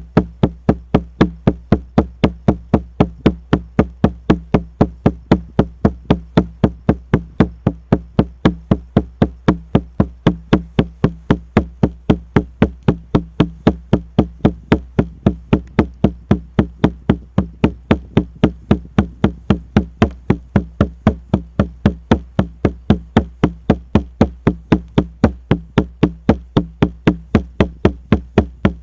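Shaman's frame drum (buben) beaten in a fast, even, unbroken rhythm, each stroke giving a deep booming thud.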